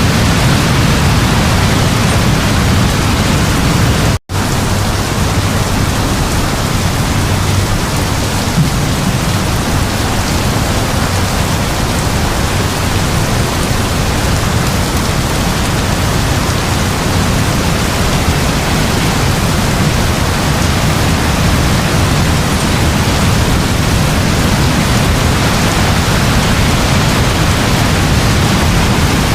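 Heavy steady rainfall, a dense even hiss with a low rumble beneath it. About four seconds in, the sound cuts out completely for a split second and then resumes, like an edit splice in the recording.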